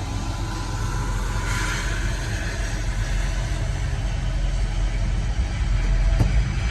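CN GE Evolution Series (GEVO) diesel locomotive hauling an intermodal freight train slowly past: a steady deep engine rumble, with rolling wheel-and-rail noise joining about a second and a half in.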